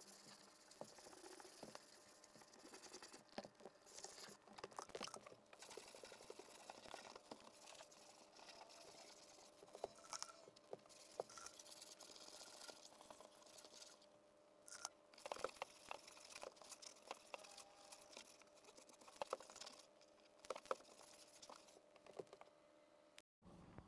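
Faint scratching and light ticks of hand sanding on the boat's surface, close to near silence.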